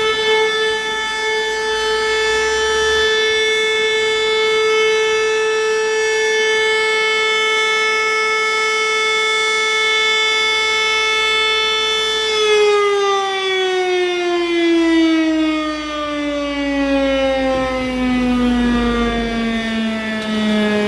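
Fire station's motor-driven alert siren sounding a steady tone, then winding down, its pitch falling slowly from about two thirds of the way in: the alarm calling out the volunteer firefighters.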